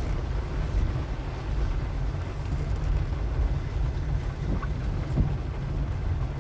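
Car driving: a steady low rumble of engine and tyres, with a few faint knocks and clicks.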